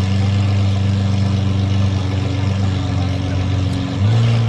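Lamborghini Aventador V12 idling steadily through an Fi aftermarket exhaust, with the engine speed stepping up slightly near the end.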